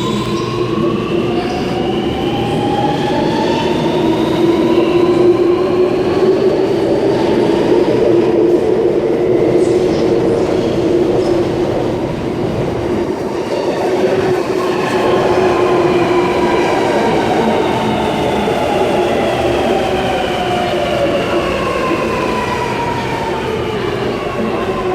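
Alstom Metropolis driverless metro train pulling out, its electric traction motors whining in several tones that rise in pitch over the first several seconds, under a steady rumble of wheels on rail. In the second half a whine falls steadily in pitch.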